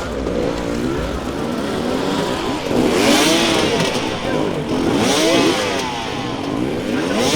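Enduro motorcycle engines revving up and down in repeated bursts, with louder surges about three seconds in, around five seconds in and near the end.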